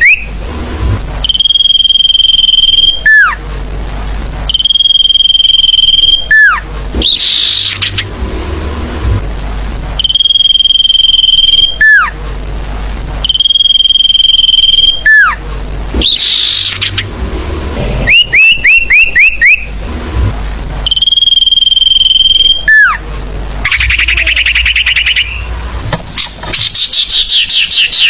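Looped lure recording of a sirfu bird's song. It cycles between a long, steady high whistle of about a second and a half that ends in a quick downward slur, and fast runs of short chirps and trills.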